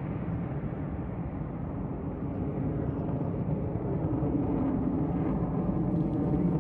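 Jet noise from an F-35A Lightning II's single F135 turbofan engine: a steady, deep rushing rumble that grows a little louder toward the end.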